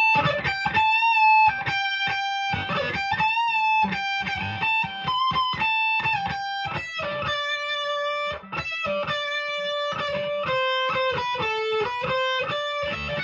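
PRS S2 Standard 24 electric guitar on its bridge pickup in full humbucker mode, played through the ultra gain channel of a Marshall amp: a single-note lead line of picked notes, with held, wavering notes from bends and vibrato near the start.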